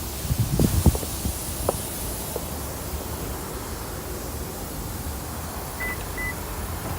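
Car sounds: a short burst of low thuds and rumble about half a second in, then a steady low hum, and two short high electronic beeps near the end.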